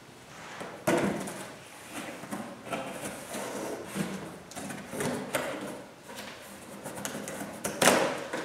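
Handling noise from props being moved about on a table: rustling and light knocks, with a sharper knock about a second in and another near the end.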